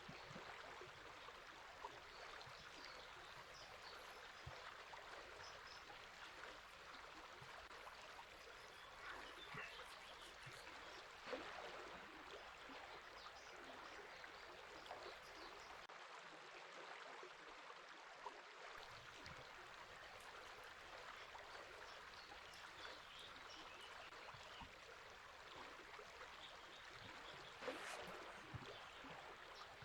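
River water running steadily, with faint scattered bird chirps. Two brief, louder clicks stand out, one about a third of the way through and one near the end.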